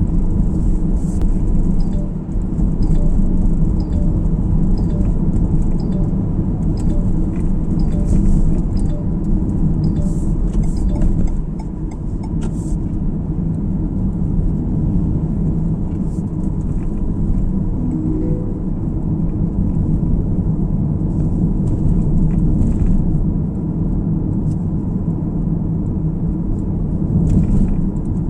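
Steady road noise of a car being driven, a dense low rumble of tyres and engine, with scattered faint ticks and clicks.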